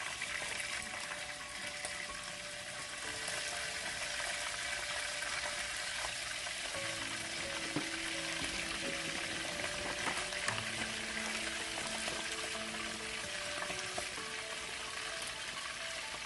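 Pork ribs sizzling as they brown in hot oil in a frying pan, a steady dense crackle with a few faint clicks.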